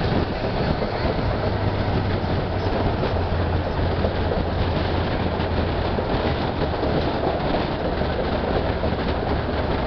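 Passenger train coach running along the rails, heard from its open window: a steady rumble of wheels on track under a low hum, which is strongest in the first half.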